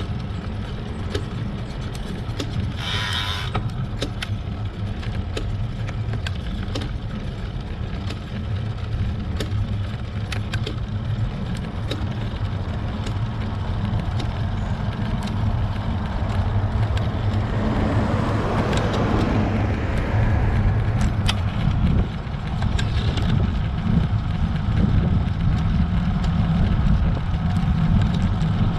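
Road bike ridden uphill, with steady wind and road rumble on the camera and irregular sharp clicks from the chain, the abnormal chain noise that the rider is struggling with. A louder hiss swells about 18 seconds in.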